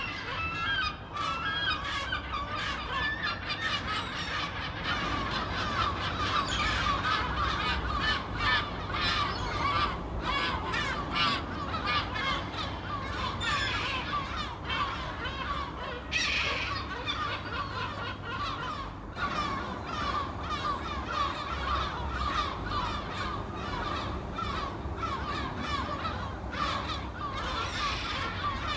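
A flock of gulls calling continuously, many short cries overlapping, over a low steady rumble.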